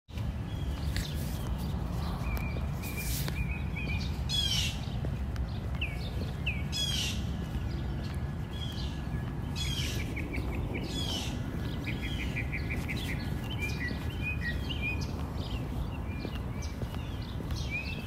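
Several wild birds chirping and calling over a steady low background rumble, with a couple of fast trills and a few harsh calls.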